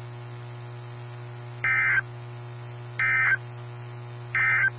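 NOAA Weather Radio SAME end-of-message data tones: three short, identical, harsh two-tone digital bursts about a second and a half apart, over a steady low hum. They mark the end of the severe thunderstorm warning broadcast.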